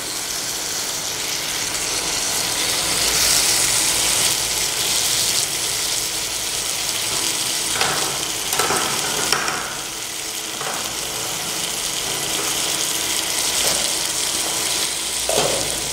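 Masala-coated chicken pieces sizzling in oil in a pan, a steady frying hiss, with a few brief louder sounds about halfway through and again near the end.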